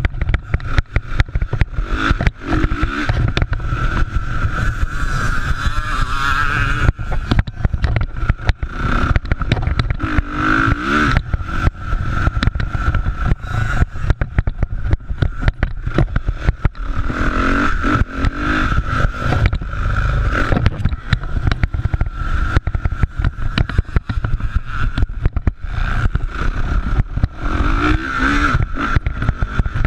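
Motocross bikes racing, their engines revving and swelling as they pass about four times, over a constant rumble and crackle.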